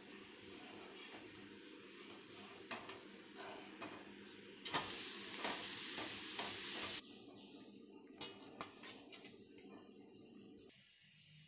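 Vegetable dosa sizzling on a hot iron tawa, with a steel spatula scraping and tapping against the pan. About five seconds in comes a much louder sizzle for a couple of seconds that cuts off abruptly, as the dosa is flipped with its vegetable topping onto the hot pan.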